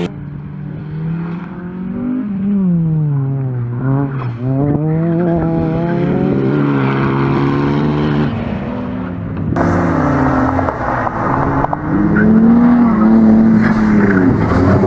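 Renault Mégane RS's turbocharged four-cylinder engine driven hard, its note climbing and dropping again and again as the driver accelerates, shifts and lifts for corners. It runs high and steady near the end.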